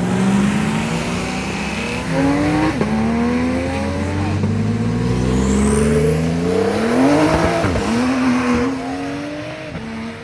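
A car's engine accelerating hard, its pitch climbing and then dropping at each gear change, several times over.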